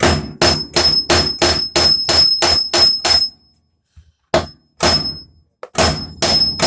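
Heavy hammer blows on the metal drive shaft and hub of a Maytag washer's tub assembly, knocking the shaft loose for removal, each strike leaving a high metallic ring. About ten quick blows are followed by a pause of about a second, then a few more.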